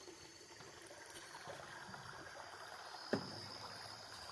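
Faint steady flowing of a creek, with a single short knock about three seconds in.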